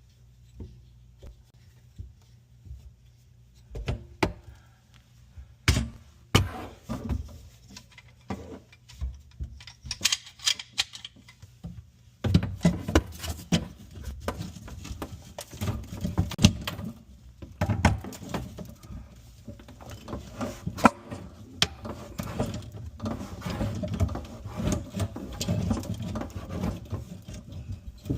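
Scattered clicks, clinks and knocks of hands and tools working on the sink's water supply hoses as they are unscrewed from the shut-off valves. The sounds are sparse at first, then come thick and fast from about halfway.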